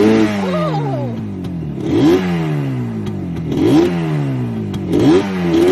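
Motorcycle engine revved again and again, about four times, each rev rising quickly in pitch and then dying away slowly.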